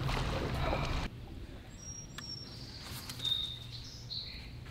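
A few short, high songbird chirps and a brief trill over a quiet outdoor background. Before them a louder steady rushing noise cuts off suddenly about a second in.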